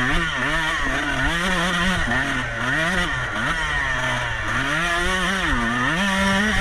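Off-road racing motorcycle engine revving up and down over and over as the throttle is worked, pitch swinging up and back several times, holding a higher rev near the end.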